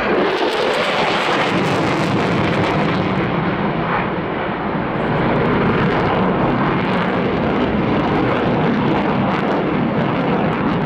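Fighter jet in a display flight, its engine noise loud and steady throughout, easing slightly a few seconds in.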